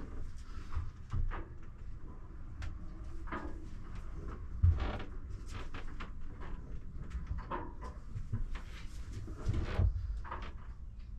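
Scattered knocks, clicks and creaks inside a small sailboat's cabin over a steady low rumble, with a louder knock about five seconds in and another near the end.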